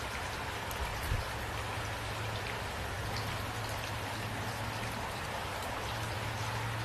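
Steady rain falling on a surface, with scattered drop ticks and a brief low thump about a second in.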